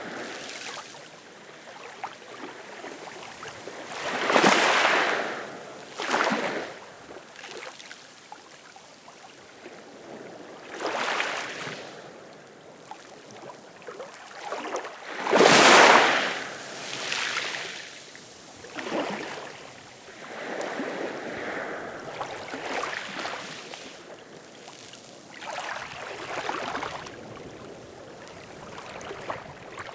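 Ocean waves breaking and washing ashore, in irregular swells every few seconds, the loudest about halfway through.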